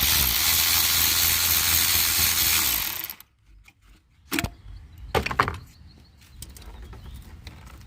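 A power tool runs steadily for about three seconds, then stops. A few sharp clicks and knocks of tools and parts follow.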